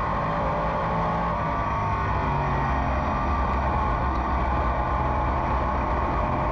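Race car engine running hard on track just after a green-flag restart, a steady drone with no shifts or breaks.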